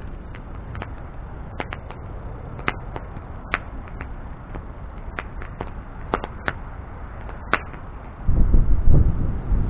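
Wood bonfire burning, crackling with sharp pops over a steady low hiss of the flames. Near the end a much louder, uneven low rumble starts.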